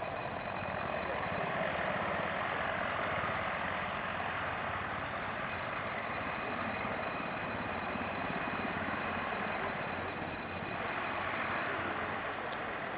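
Mi-26 heavy transport helicopter running close by: a steady rush of rotor and engine noise, with the high, even whine of its twin D-136 turboshaft engines above it. It swells slightly a couple of seconds in and again near the end.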